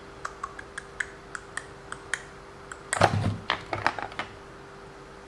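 Light, irregular clicks and taps of small parts and a hand tool being handled on a hobby RC car, with a louder cluster of clattering knocks about three seconds in.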